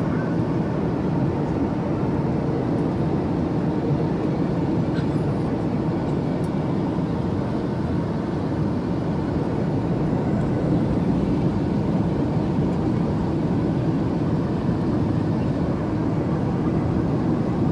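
Steady cabin noise of an airliner in flight: an even, low roar of engines and airflow heard from inside the passenger cabin.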